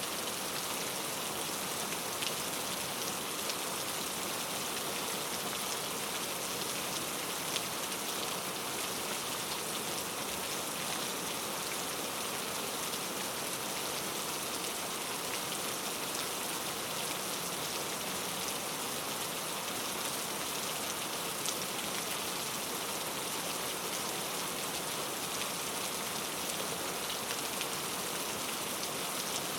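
Steady rain, with scattered individual drops ticking against a surface.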